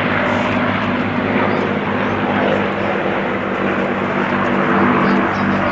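Propeller airplane's engine droning steadily in flight overhead, one even pitched note over a wide rush of noise.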